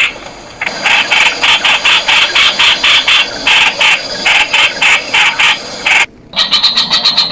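Streak-eared bulbul calling: a rapid, unbroken string of short harsh notes, about six a second, with a brief pause just after the start. A sudden cut just after six seconds is followed by a faster, higher series of notes.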